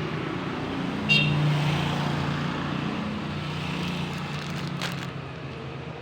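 A motor vehicle's engine running steadily, fading toward the end, with a short high-pitched beep about a second in.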